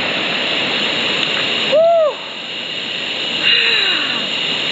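Waterfall rushing steadily into a pool, with one short hoot that rises and falls in pitch about two seconds in.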